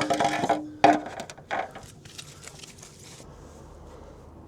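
A few sharp metal knocks and clicks as a wrench works a very tight oil drain plug loose on a Vespa GT 200 scooter engine. The knocks come in the first two seconds, and then it goes quiet.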